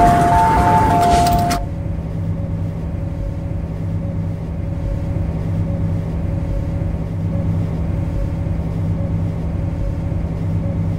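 A two-note electronic chime over a rush of noise for the first second and a half, then the steady electrical hum of the MTR C-Train standing at the platform.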